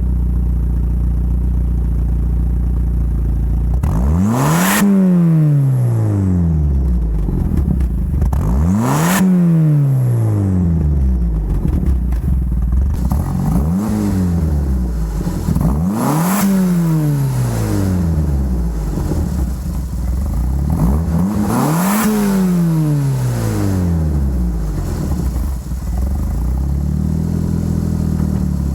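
A 1987 Pontiac Sunbird GT's 2.0-litre turbocharged four-cylinder idling through its newly fitted exhaust and being revved about five times. Each rev rises sharply and sinks back to idle over a couple of seconds, the first about four seconds in.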